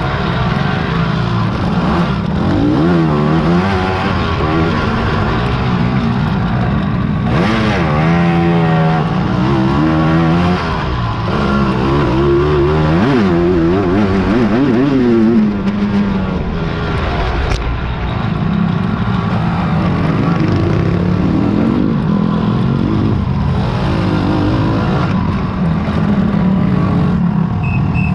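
Several big racing quads (ATVs) revving and running through the gears as they ride by, their engine notes rising and falling over one another.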